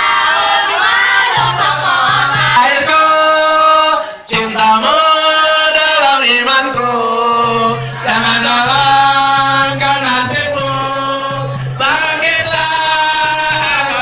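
Voices singing a chant together in long held notes, with a short break about four seconds in.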